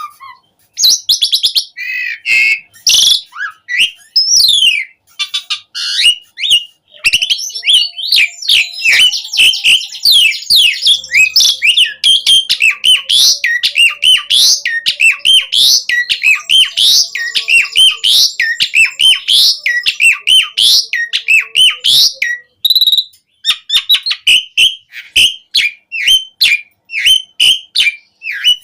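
Asian pied starling (jalak suren) singing hard: a fast, dense stream of whistles, chirps and rasping notes. It has short breaks near the start and about six seconds in, and more spaced-out notes near the end.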